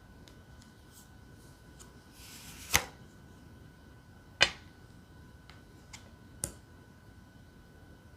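Tarot cards being handled: a short sliding rustle ending in a crisp tap just under three seconds in, another sharp tap about a second and a half later, and a lighter click around six and a half seconds, with faint ticks in between.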